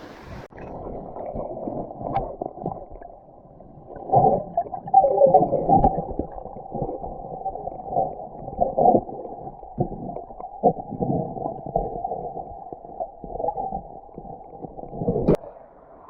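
Muffled gurgling and sloshing of water, with everything above a low pitch cut off, as heard through a submerged or sealed camera microphone. From about four seconds in, irregular louder splashes and bubbling come and go, with a sharp knock just before the end.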